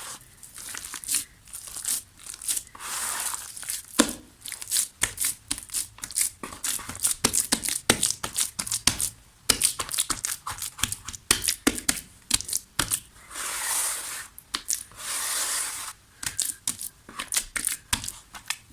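Soft dried mud crumbling: a dense run of sharp crackles and crunches, broken by a few longer hissing rustles.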